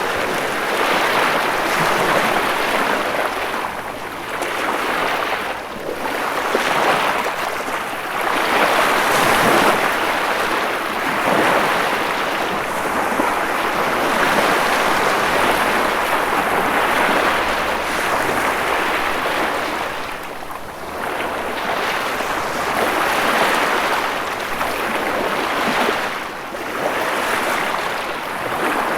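Ocean waves breaking on a shore: a continuous rush of surf that swells and eases every few seconds.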